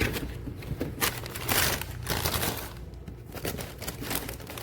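Crinkling and rustling of handled material, in irregular bursts, the loudest about one and a half seconds in.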